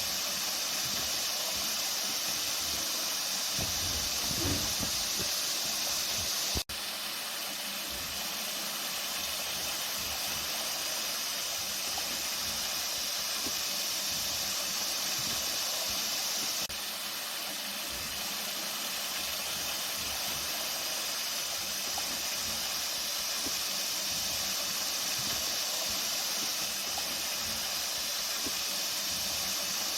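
Steady rushing of flowing water. The sound drops slightly in level twice, abruptly, at about a fifth and a little past half way through.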